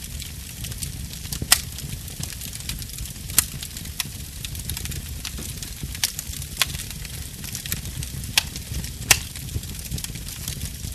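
Wood fire in a fireplace crackling: a steady low rumble and hiss of the flames with scattered sharp pops, the loudest ones coming every second or two.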